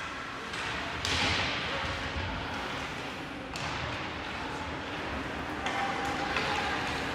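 Ice hockey play: a steady rink hiss of skates on the ice, broken by a few sharp knocks of the puck and sticks against the boards.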